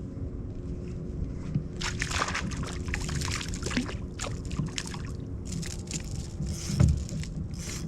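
Water splashing and dripping close by, a busy run of small splashes starting about two seconds in, over a steady low rumble, with a single heavier thump near the end.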